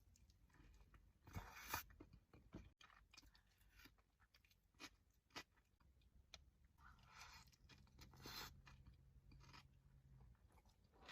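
Close-miked chewing of sushi: faint wet mouth clicks and crunches throughout, with louder chomps about two seconds in and again around eight seconds.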